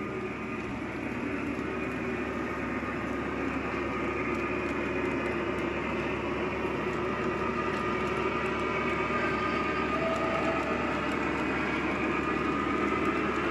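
Lionel Legacy ES44AC model locomotive's diesel engine sound running steadily from its onboard speaker, slowly growing louder.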